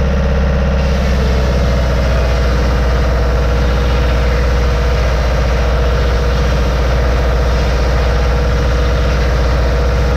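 Homemade sawmill running, fitted with a saw blade with freshly changed teeth. A steady low drone comes from the machine, and a higher hiss joins about a second in and holds.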